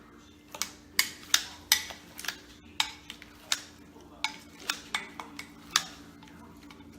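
Salad choppers cutting cooked chicken in a bowl: a run of sharp, uneven clicks and clacks, roughly two a second, as the blades snap shut and knock against the bowl.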